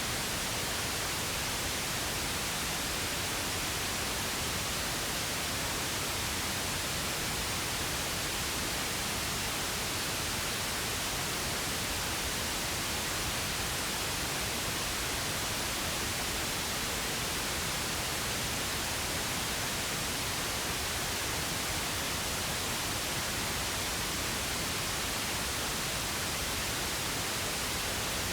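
Steady synthetic pink noise: an even, unchanging hiss across the whole range, with no events.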